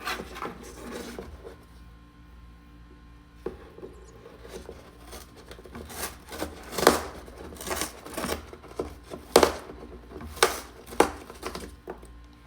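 A parrot's beak tearing and chewing a cardboard box: irregular snaps and crunches of cardboard being ripped apart, with a short lull about two seconds in and louder tears after the middle.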